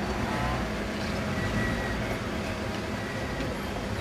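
Engine of a vintage open-top car running steadily at low speed as the car rolls slowly past, with a faint steady whine above it.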